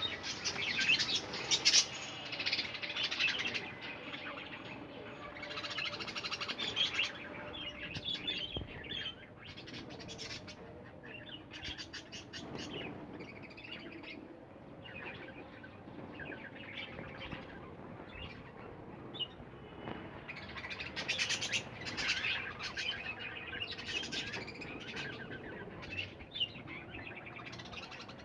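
Budgerigars chattering and chirping, a busy flock of overlapping warbles and squeaks that swells and eases in loose bursts.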